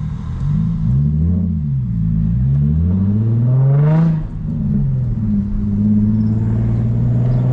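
Infiniti G35's 3.5-litre V6 with the muffler and resonator deleted, revving up under acceleration, its pitch climbing for a few seconds. About four seconds in the revs drop sharply for a gear change on the six-speed manual, then the engine pulls again at a steadier pitch.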